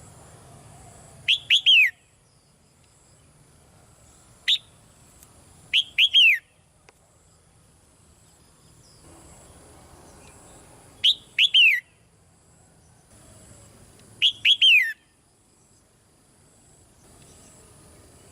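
Red-whiskered bulbul calling: five short phrases, most of them two or three quick notes each sweeping downward in pitch, with one single note among them, spaced a few seconds apart.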